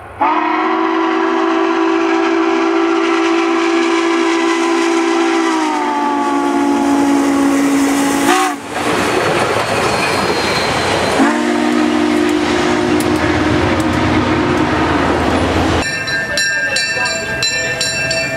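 Dubbed recording of a real train passing, sounding a long multi-note chord that drops in pitch as it goes by. It is followed by the rush of wheels rolling on rails and then a second long chord. About sixteen seconds in, the sound changes abruptly to a different train recording.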